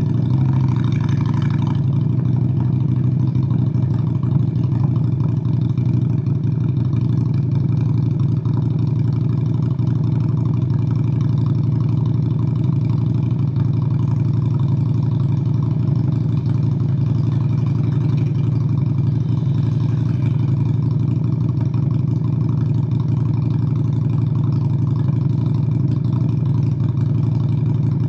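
Honda Steed VLX 600 V-twin motorcycle engine running steadily at road speed. It is a constant low drone with no marked revving or shifting, apart from a brief brighter lift in the first couple of seconds.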